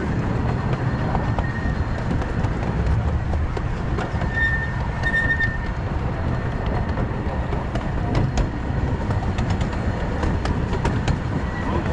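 Miniature steam train's cars rolling along the track: a steady rumble with scattered clicks of wheels over the rail joints, and two short high wheel squeals around the middle.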